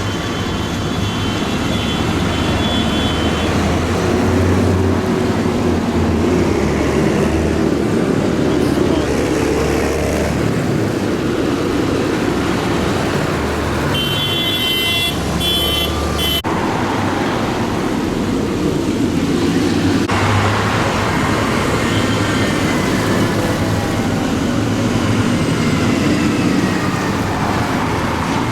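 Tractor engines running at low speed as a line of tractors passes, their low drone rising and falling as each one goes by, with voices in the background. A brief high-pitched tone sounds about halfway through.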